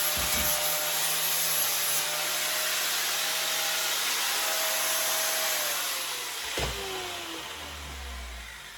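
Handheld power tool running with a rasping scrub against the metal of a pit bike frame during frame prep. It is switched off about six seconds in and its motor winds down in pitch, with a single knock as it is set down or lifted.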